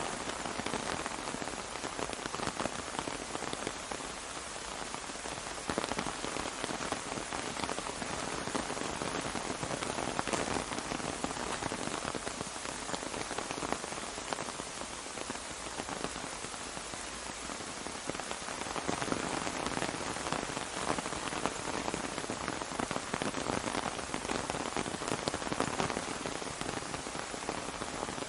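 Steady rain falling on an umbrella, a dense even patter of many drops.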